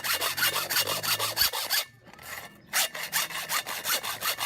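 Hacksaw cutting metal with quick back-and-forth strokes, about four or five a second, stopping briefly about two seconds in before sawing resumes.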